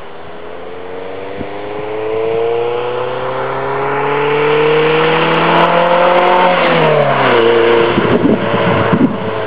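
2001 MGF 1.8i's K-series four-cylinder engine through a Mike Satur Daytona exhaust and sport catalyst, accelerating with its note rising steadily in pitch and loudness, then falling quickly about seven seconds in, followed by rougher, uneven noise.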